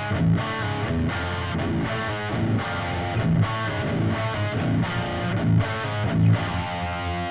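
Peavey 7-string electric guitar with a Seymour Duncan Nazgul pickup, played through a Stomp Machines Prometheus distortion pedal (a Revv G3-style preamp) into a cabinet impulse response. It plays a low, heavily distorted metal riff of quick changing notes and ends on a held chord that rings near the end.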